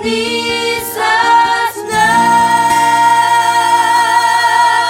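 Singing over a musical backing, closing the song with a long held final note from about two seconds in.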